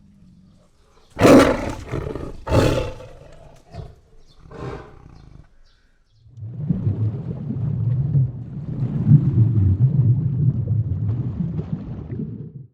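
A large animal roaring: a few short loud roars in the first five seconds, then a long low growl that cuts off suddenly at the end.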